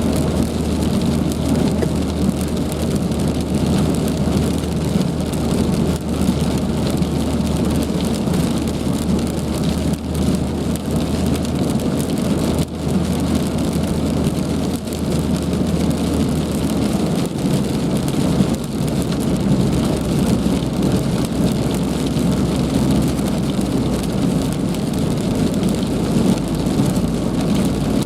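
Heavy rain falling steadily, a dense even hiss, with a steady low hum underneath that shifts about two-thirds of the way through and then fades out.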